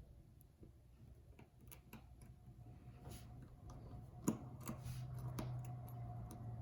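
Faint, irregular small clicks and taps of precision repair tools against the parts of an opened iPhone, growing more frequent and a little louder from about a second and a half in, over a low steady hum.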